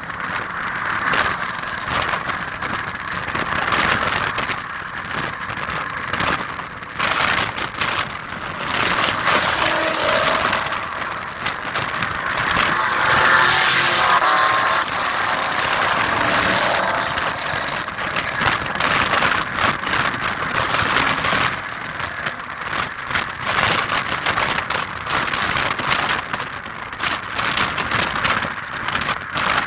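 Cars passing by with their engines running. The loudest pass builds about twelve seconds in and fades a few seconds later.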